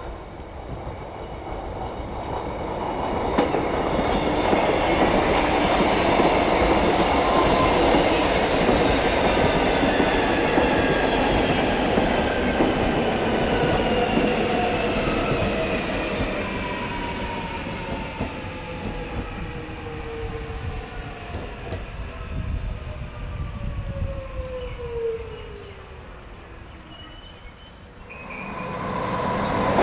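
Electric suburban train running on the rails, building up and then fading. A whine falls slowly in pitch over its last several seconds.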